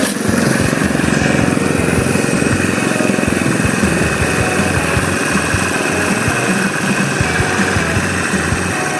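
Small engine running steadily, with a fast, even firing beat.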